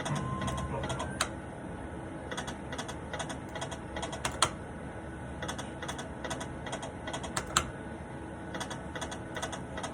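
Poker machine clicking and ticking irregularly during play, several clicks a second with a few sharper ones, over a steady background hum.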